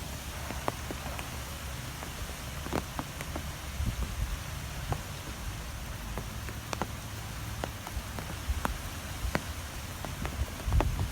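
Strong wind blowing: a steady hiss over a low, gusting rumble, with scattered sharp ticks through it.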